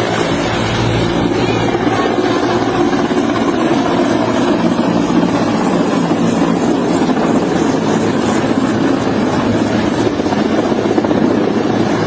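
Helicopter running: a loud, steady rotor and engine noise with a low drone and no break or impact.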